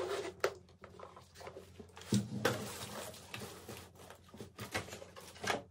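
A makeup case being handled and its contents sorted through: scattered light clicks and knocks of plastic cosmetics containers, with a heavier knock about two seconds in.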